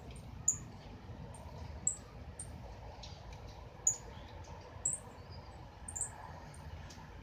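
A caged small bird giving short, high chirps, some falling quickly in pitch, about one every second at irregular intervals.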